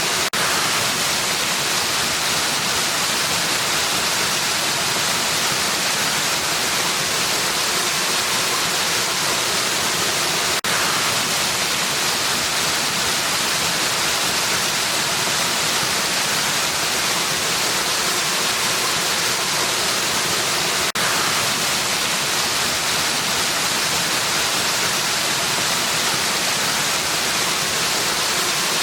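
Waterfall: a steady, even rush of falling water, briefly dipping twice about ten seconds apart.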